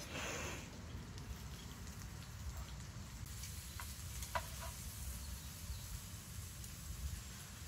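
Bacon and mushrooms frying in a pan over a campfire grill, with a few sharp clicks of metal tongs against the pan about four seconds in, over a low steady rumble.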